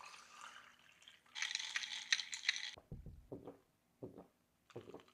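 A drink being poured into a cup: a short steady rush of liquid lasting about a second and a half, followed by a few brief soft knocks.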